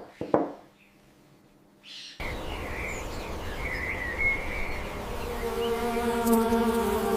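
A couple of short spray-bottle squirts, then near silence. Then, after a sudden cut, outdoor ambience with small birds chirping, joined about halfway through by a steady buzzing hum that grows louder.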